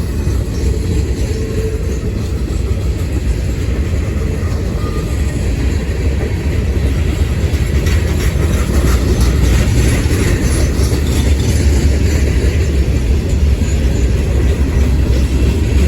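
Freight cars of a long CSX manifest train rolling past with a steady, heavy rumble and the clatter of wheels over the rails, growing a little louder about halfway through.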